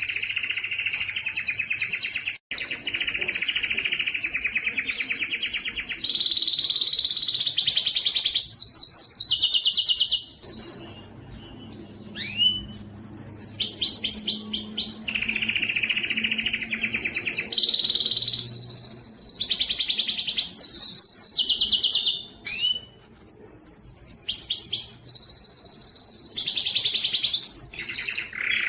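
Canary singing a long song of rapid trills and rolled phrases, each held for a few seconds before switching to another, with brief pauses twice.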